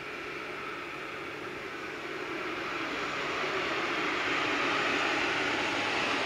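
An approaching electric train's running noise, a steady rushing sound that grows gradually louder.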